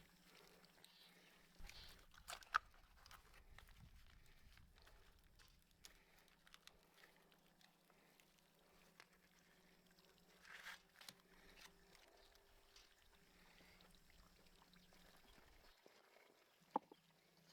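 Near silence: faint room tone with a low steady hum and a few soft clicks, the sharpest about two and a half seconds in and another near the end.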